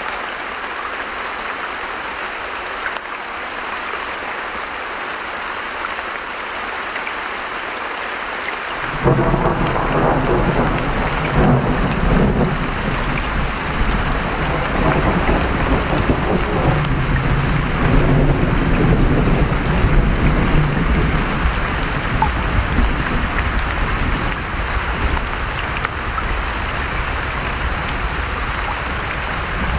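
Steady heavy rain, joined about nine seconds in by a sudden clap of thunder that rolls on as a long low rumble for some fifteen seconds before easing off under the rain.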